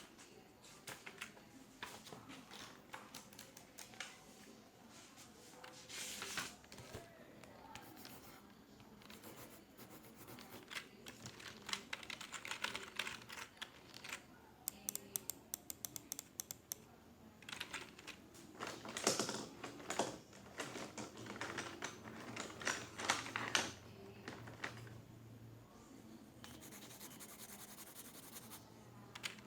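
Computer keyboard typing in irregular runs of key clicks, with a fast rattle of keystrokes in the middle and louder clusters in the second half, against the quiet background of an office.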